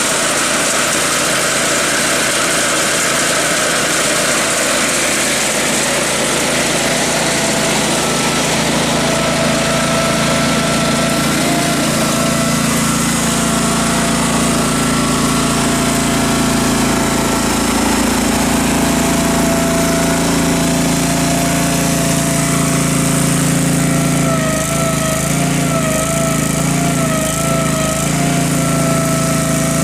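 An engine running steadily, with a wavering whine near the end.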